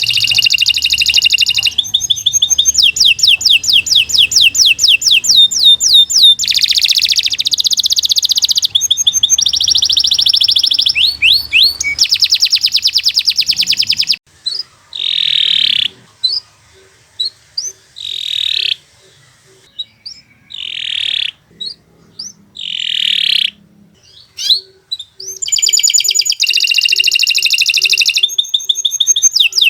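Domestic canary singing: long runs of very fast trills for about fourteen seconds, then a stretch of short separate phrases with pauses between them, and fast trilling again near the end.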